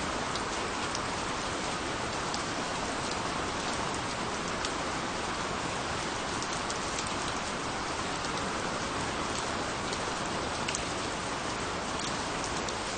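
Steady rain falling, an even hiss with many scattered drop ticks, constant throughout.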